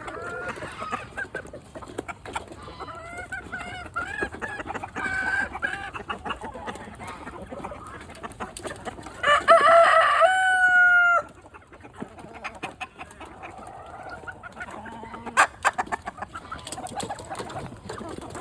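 Chickens clucking, with a rooster crowing loudly once about halfway through, its long final note held for about a second before breaking off.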